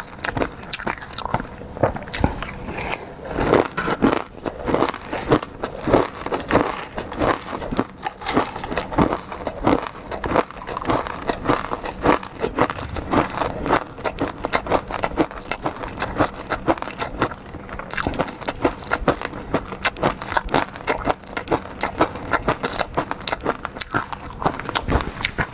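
Close-miked eating: steady, irregular wet chewing and biting, with dense little clicks and crunches.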